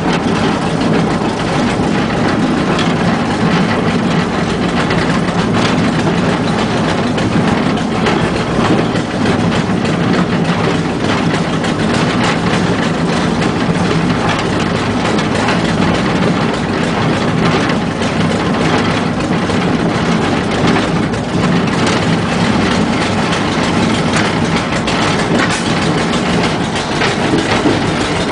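Narrow-gauge light railway train running: a steady engine drone with the wheels clicking over the rails, heard from inside the cab.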